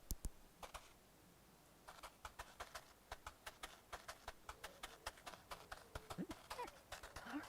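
Light, evenly paced clicking like small cartoon footsteps, about four to five clicks a second, starting about two seconds in. A few short squeaky rising and falling chirps come near the end.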